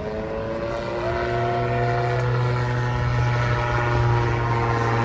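RAF Chinook twin-rotor helicopter flying past, a steady engine and rotor drone with several held pitched tones, growing a little louder about a second in.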